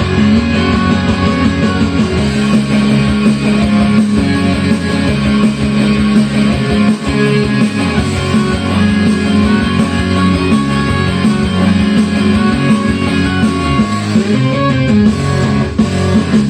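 Instrumental intro of a guitar rock song from a karaoke backing track, led by electric guitar. It plays steadily, with no singing yet.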